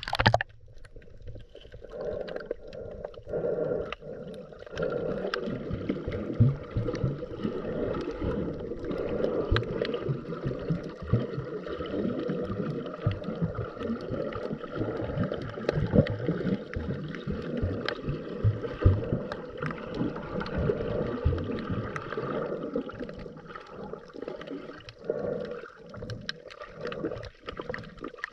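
Underwater sound through a GoPro housing: a scuba diver's exhaled bubbles gurgling and crackling in long spells, with short lulls between breaths.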